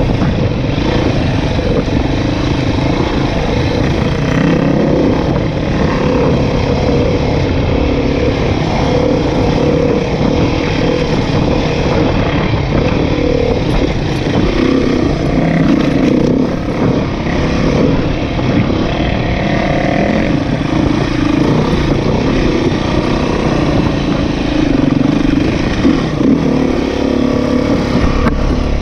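Dirt bike engine running while riding off-road, its pitch rising and falling with the throttle.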